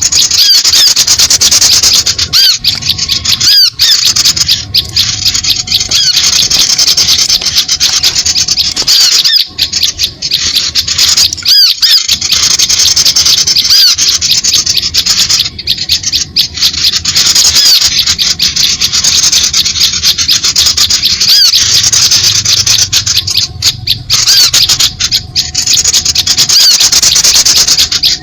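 A flock of small birds chattering noisily, with many fast, high-pitched chirps overlapping into a continuous din. The din is broken by brief gaps every few seconds.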